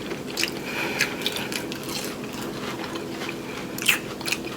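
Close-up crunching of battered, fried onion rings being chewed: irregular sharp crackles, a few at a time.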